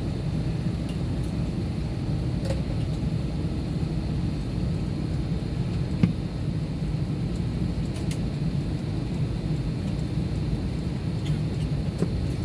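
Steady low rumble of aircraft cabin noise, with one sharp click about six seconds in.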